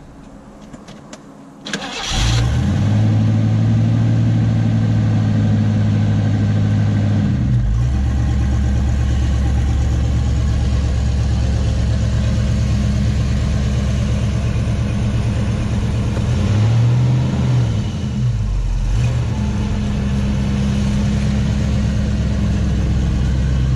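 A Ford 5.0 V8 swapped into a 1985 Mustang LX convertible catches and starts about two seconds in, after a few faint clicks, then idles steadily. The idle pitch shifts about seven seconds in, and near the seventeen-second mark the pitch briefly dips and comes back.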